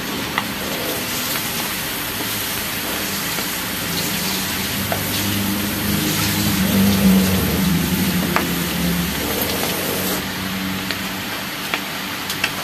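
Pork intestines sizzling as they sauté in oil in a wide wok, their fat rendering out as they brown. A low hum swells and fades in the middle, and a few faint clicks come through.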